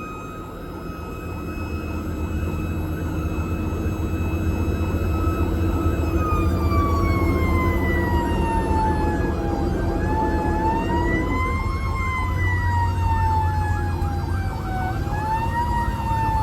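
A fire truck's siren wailing over the rumble of a heavy engine. It holds one pitch at first, then slowly falls, rises, falls again and starts rising near the end.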